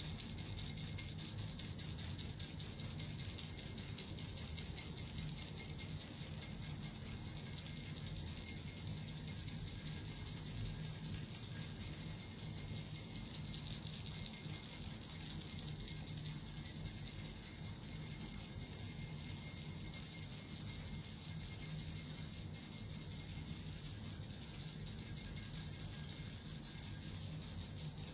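Small suzu bells shaken continuously in a steady, unbroken jingle, played as a healing sound for shamanic journeying.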